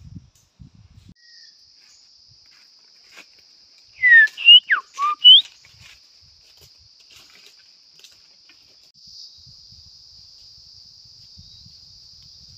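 A bird's loud whistled call: a quick run of four or five sliding notes about four seconds in, over a steady high drone of insects.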